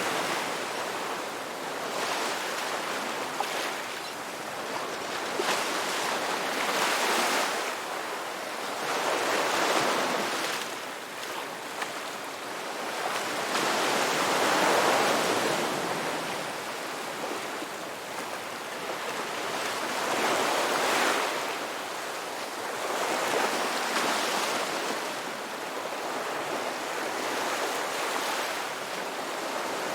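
Ocean surf: waves breaking and washing ashore one after another, the rush swelling and ebbing every few seconds.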